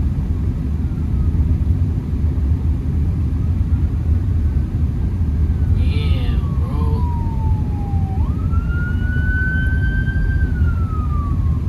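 Ambulance siren wailing in slow rises and falls of pitch, louder in the second half, with a quick jump up in pitch about eight seconds in. It is heard from inside a car's cabin over a steady low rumble of engine and road noise.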